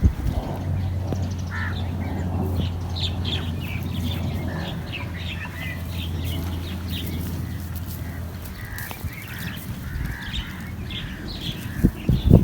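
Chicks peeping: a steady stream of short, high chirps. Under them a low steady hum runs and stops about eight seconds in.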